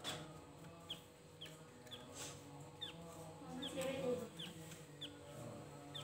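Javan grey-throated white-eye (opior jawa) giving short, high, downward-slurred call notes, about one every half second, with a fainter, lower call near the middle.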